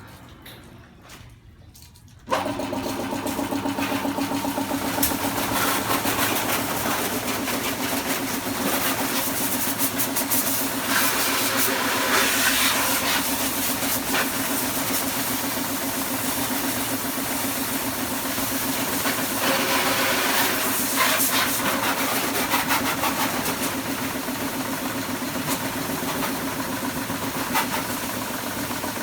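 A high-pressure washer switches on about two seconds in and runs steadily, its motor humming under the hiss of the water jet, which grows louder at times as the spray hits the motorcycle.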